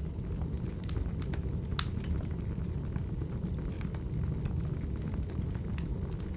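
Wood fire burning, a steady low rumble of flames with scattered sharp crackles and pops from the burning logs, the loudest pop about two seconds in.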